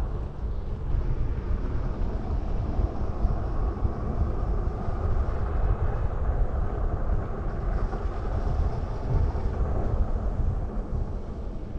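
Wind buffeting the microphone during a ride on a Super 73 electric bike: a steady, gusty low rumble that eases off near the end.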